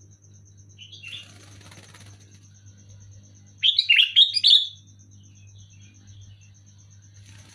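Sooty-headed bulbul giving a loud burst of quick chattering notes lasting about a second around the middle, after a faint short call about a second in.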